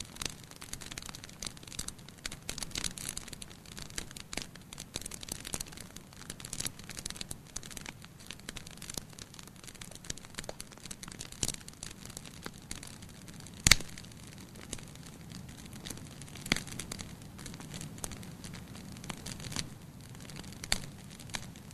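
Wood fire in a fireplace crackling: a steady run of small snaps, with a few sharper pops and one loud pop about two-thirds of the way through.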